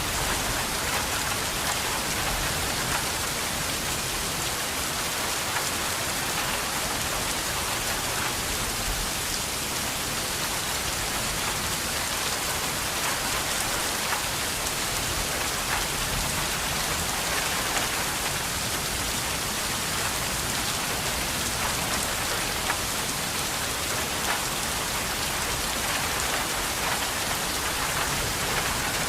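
Steady rain falling and pattering on a surface, an even hiss of many small drop impacts with no change in intensity.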